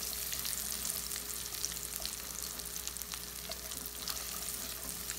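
Diced bacon and dried prunes frying in rendered bacon fat in a nonstick pan, a steady sizzle with many small crackles, stirred with a spatula.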